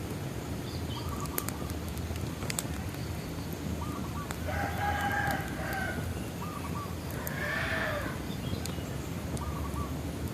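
Wood fire crackling with scattered sharp pops, while a rooster crows twice: a longer crow about four seconds in and a shorter one about seven seconds in.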